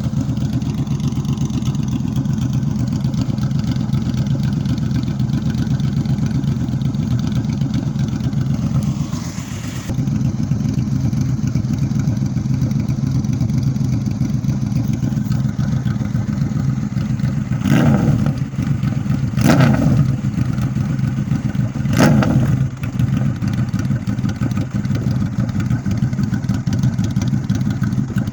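Honda VFR VTEC's V4 engine idling steadily through a full Delkevic aftermarket exhaust, with three short throttle blips a little past the middle of the clip.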